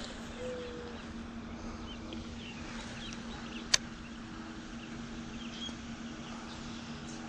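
Outdoor ambience: a steady low hum, with faint short bird-like chirps and a single sharp click partway through.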